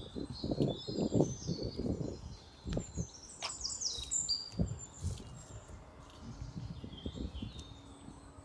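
Small birds chirping and singing in quick, mostly falling notes, over irregular low thumps and rumbles. A faint steady hum comes in near the end.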